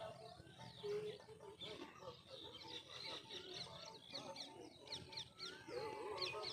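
Birds chirping, many quick high chirps overlapping and repeating throughout. A wavering tune or voice comes in near the end.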